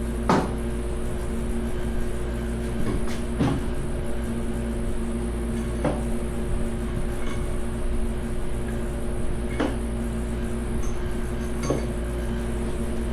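Scattered metallic clinks and knocks of tools and parts being handled during an engine teardown, about six in all, over a steady hum from a fan or air conditioner.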